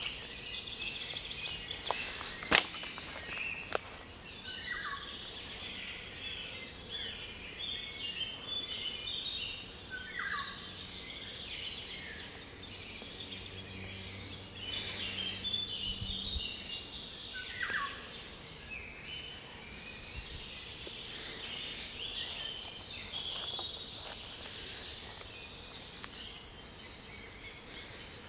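Mixed chorus of several songbirds singing at once, with overlapping high chirps and trills and a few short falling whistles. Two sharp clicks stand out about two and a half seconds in and again about a second later.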